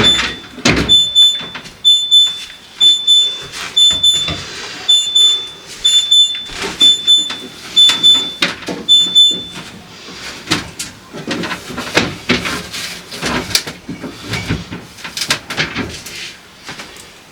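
Refrigerator door-open alarm beeping, a high beep about twice a second, which stops about nine seconds in. Knocks and clatter of things being moved run throughout.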